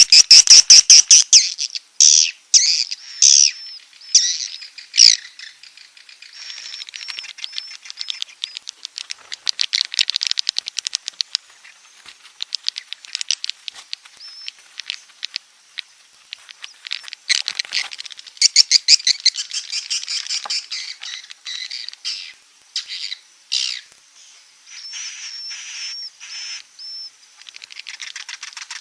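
Swiftlets (walet) calling: high-pitched, rapid buzzy chattering trills and chirps in repeated bursts with short pauses, the roosting ('inap') call played to lure swiftlets into a nesting house.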